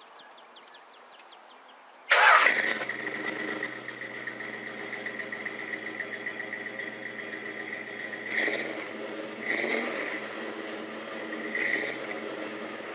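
A car engine cranking briefly, catching about two seconds in, then running steadily with three short blips of the throttle.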